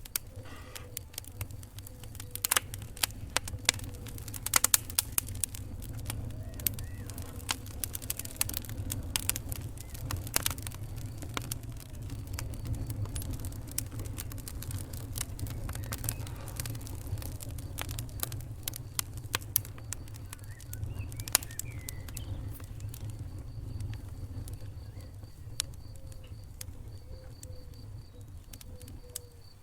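Wood fire crackling in a fireplace: irregular sharp pops and snaps over a low, steady rumble of the flames. The pops come thickest in roughly the first half and thin out later.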